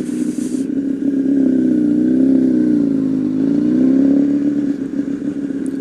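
Honda CBR1000RR Fireblade's inline-four engine running while under way, its pitch rising and falling gently with the throttle.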